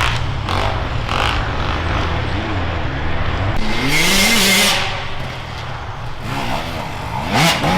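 Enduro motorcycle engines revving up and down as bikes ride through on dirt, the engine pitch rising and falling with each throttle change. A loud rushing noise comes about four seconds in, and a short loud burst comes near the end.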